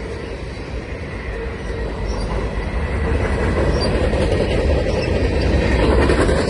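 CN freight train rolling past a level crossing: a steady rumble of wheels on rail that grows louder about halfway through.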